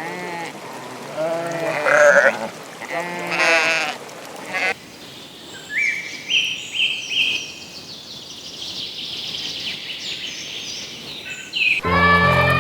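Sheep bleating: four wavering calls over the first five seconds. Then a quieter stretch of high chirping tones follows, and music comes in near the end.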